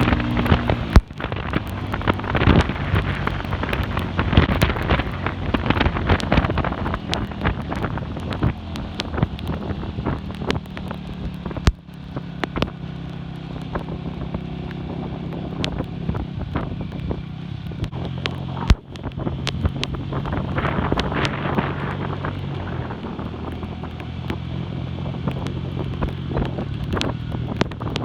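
Classic Earl 150 cafe racer motorcycle engine running under way, with heavy wind buffeting on the microphone. The engine sound dips briefly three times, about 1, 12 and 19 seconds in.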